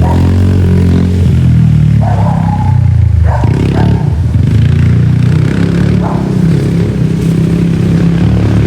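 Small dirt bike's engine running loud and close, with a change in pitch about three seconds in.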